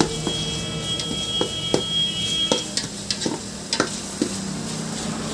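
A metal spoon stirring and scraping in a pan of frying curry, with irregular knocks against the pan over a sizzle. A strike at the start leaves the pan ringing for about two and a half seconds.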